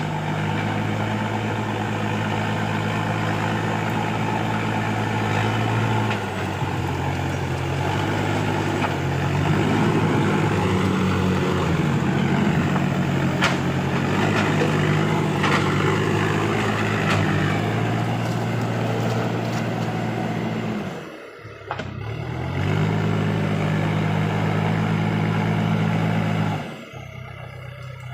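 Diesel engine of a Case heavy-equipment tractor running at work: a steady low engine drone that turns rougher and louder through the middle, then steadies again. The sound drops away briefly twice near the end.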